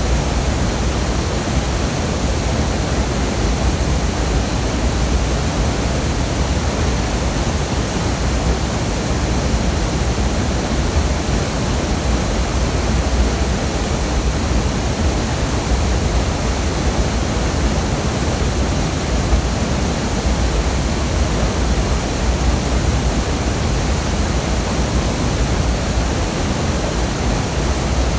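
Waterfall: a loud, steady rush of falling water, unchanging throughout, with its weight in the deep low end.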